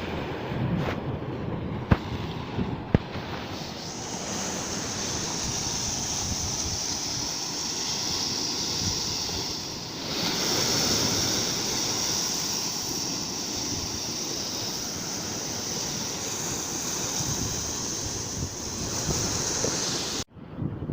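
Sea surf washing on the shore with wind on the microphone: a steady rushing hiss that swells about four seconds in, with a short lull around ten seconds, and cuts off suddenly near the end.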